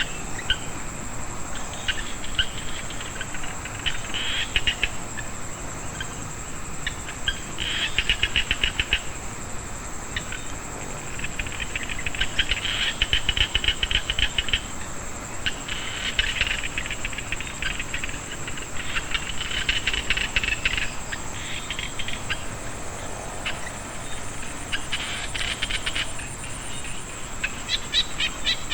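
A chorus of small paddy frogs calling after rain, in rapid pulsed trills that come and go every few seconds, over a continuous high-pitched insect trill.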